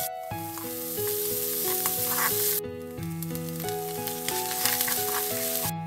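Food sizzling as it fries in hot oil, with a melody of background music over it; the sizzle breaks off abruptly for a moment about two and a half seconds in, then starts again.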